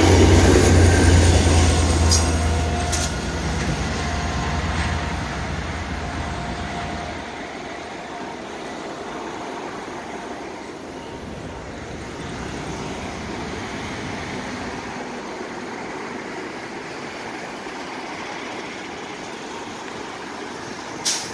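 Bilevel commuter train passing on jointed track, its rumble and wheel noise loudest at the start and fading away about seven seconds in. After that only steady road-traffic noise remains.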